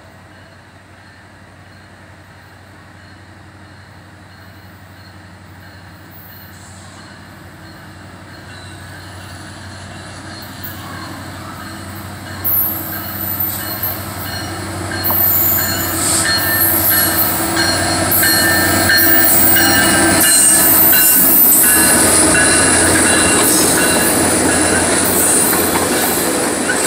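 Norfolk Southern business train approaching and passing: a steady low diesel locomotive sound grows louder, then about halfway through, high-pitched wheel squeal and rail noise come in as the train and its passenger cars go by close at hand.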